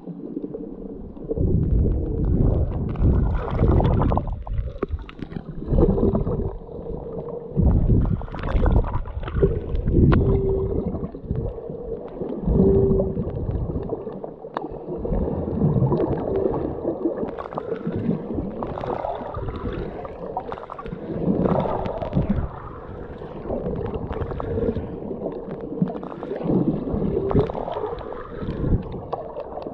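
Muffled water sloshing and gurgling, heard from a camera underwater while snorkeling, with short steady hums now and then.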